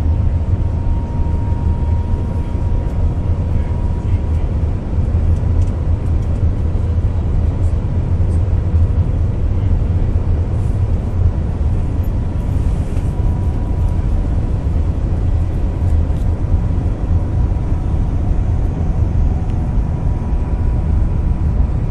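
Shanghai maglev train running at high speed, heard inside the passenger cabin: a loud, steady low rumble and rush of air, with a faint steady whine above it.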